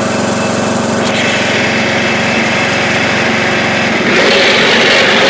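Craftsman YT3000 riding lawn tractor's engine running steadily at full throttle as it is driven, growing louder about four seconds in.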